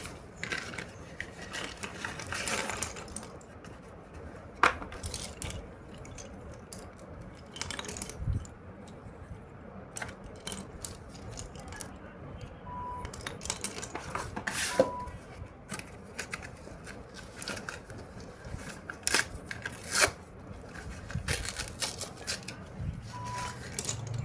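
A pack of slate pencils being unboxed by hand: packaging tearing and rustling, with scattered sharp clicks and taps as the pencils and wrapping are handled.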